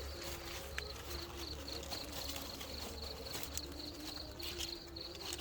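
Insects chirping: a steady, high, rapidly pulsing trill, over fainter lower calls.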